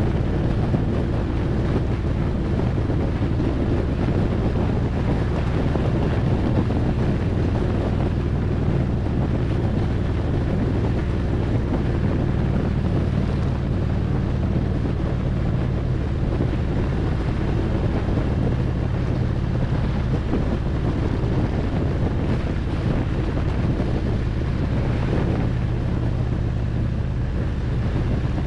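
Harley-Davidson Road Glide's V-twin engine running steadily at cruising speed, its note shifting a little now and then, with wind rushing over the microphone.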